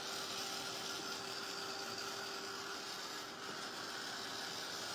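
Heat gun blowing steadily: an even airy hiss with a faint hum, drying wet paint dots just enough that they won't run.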